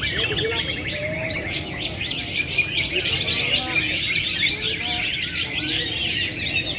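Many caged songbirds singing at once on the contest hanging poles: a dense, unbroken chorus of rapid chirps, trills and quick whistles.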